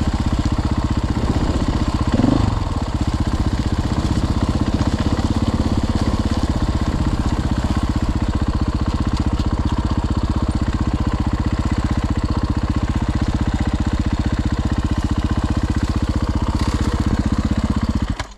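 Dirt bike engine idling steadily at a constant pitch, cutting off suddenly near the end.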